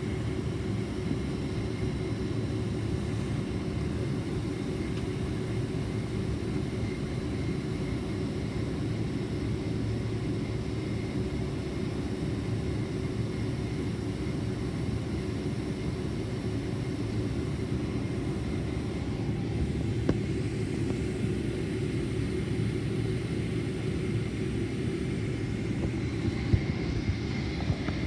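Steady engine and airflow rumble of a Boeing 767-400ER heard from inside the passenger cabin, low and even throughout, with a faint steady whine above it and a couple of small clicks near the end.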